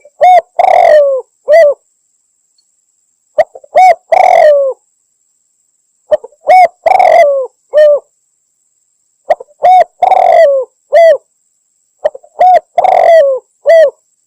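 Spotted dove cooing: five repeated phrases about every three seconds, each a few short coos around a longer middle note that rises and falls. It is a recorded call played loud as a hunting lure.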